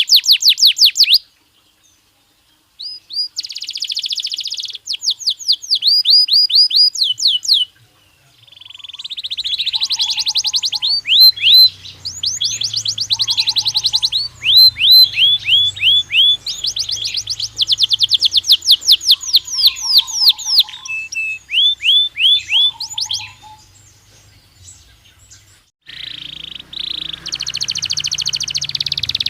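Belgian canary singing in fast trills of repeated down-sweeping notes. The phrases stop and start, with gaps about a second in and again around the 24–26 second mark.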